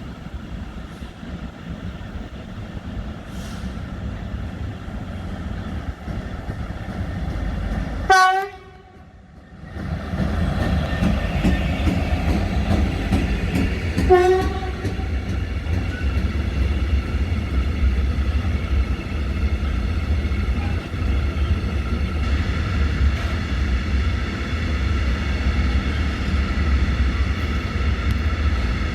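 A train approaching and passing, its horn giving two short blasts about six seconds apart, then a loud steady rumble as the train runs by.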